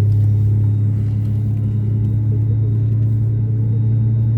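Steady, loud low hum inside an Airbus A320 passenger cabin on the ground before takeoff, from the running engines and cabin air systems.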